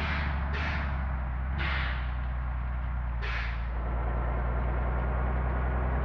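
Heavy diesel engine running with a steady low drone, over which come four short hisses of released air in the first four seconds, typical of a bus's air brakes.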